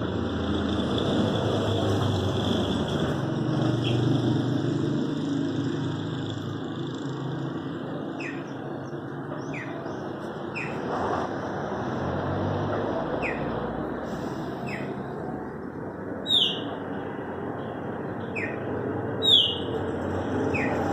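Chopi blackbirds (pássaro-preto) calling: a run of short, sharp downward-sliding notes beginning about eight seconds in, two of them loud near the end. Underneath is a low vehicle rumble, with a thin steady high tone in the first few seconds.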